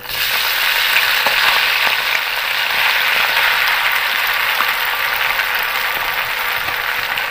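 Wet, freshly drained sago pearls sizzling steadily in hot ghee in a pan, the sizzle starting suddenly as they go in, with a few light taps of a spoon and a plastic strainer.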